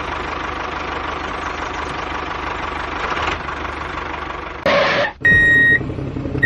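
A small motor running steadily with an even mechanical whirr, then a short loud burst and a loud, steady high-pitched beep near the end.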